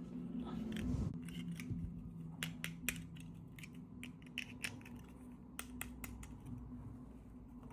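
Irregular short, sharp clicks and snips from small toy packaging being handled, over a steady low hum.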